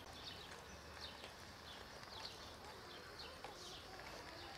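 Small birds chirping faintly: many short, high chirps, several a second, over a quiet outdoor hiss.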